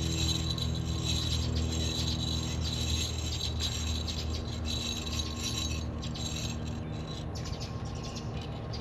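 Rope being worked through the kayak lift's pulley blocks, with quick light clicking and rattling of the pulleys over a steady low hum.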